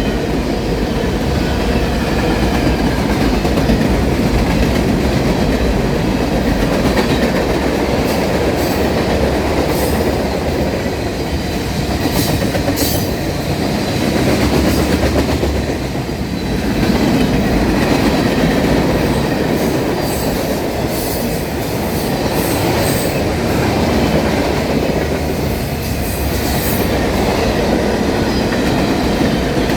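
Norfolk Southern freight train rolling past: a steady loud rumble of wheels on rail, with short high squeals from the wheels now and then.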